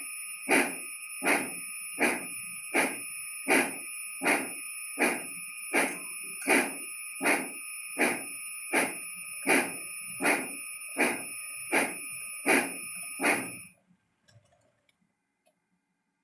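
A railroad bell ringing steadily, struck about every three-quarters of a second and ringing on between strokes. It stops abruptly about 14 seconds in, followed by a few faint clicks.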